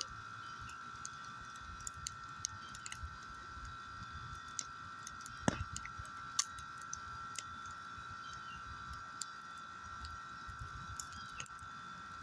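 A fire of storm debris crackling, with irregular sharp pops and snaps and one louder pop about five and a half seconds in, over a steady high-pitched hum.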